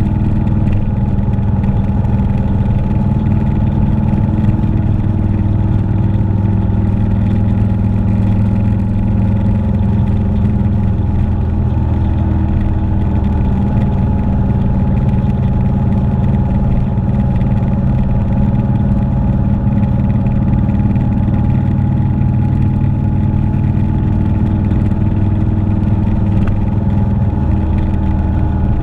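Motorcycle engine running at a steady cruise, its pitch holding nearly constant with only slight drifts.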